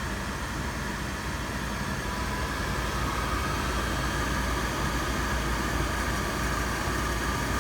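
Old Luxaire gas furnace running steadily: a low hum under an even rush of air, which grows a little louder a couple of seconds in. The furnace is staying lit after its flame sensor was cleaned.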